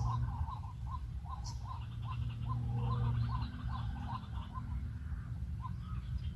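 White-breasted waterhen calling: a run of short repeated 'kwak' notes, about three a second, thinning out about two-thirds of the way through, over a steady low hum.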